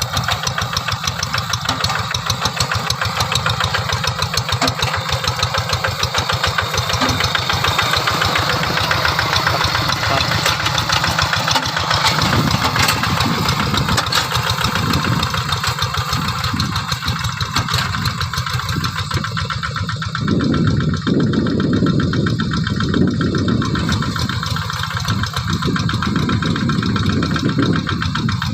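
Diesel engines of Quick G3000 two-wheel hand tractors running steadily under plowing load, with a rapid even beat. The sound gets fuller about two-thirds of the way through.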